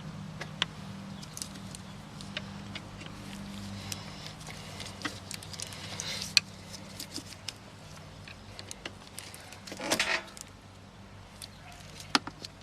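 Scattered metallic clinks and rattles of hand work on an engine hung from a hoist, with a louder half-second rush of noise about ten seconds in, over a steady low hum.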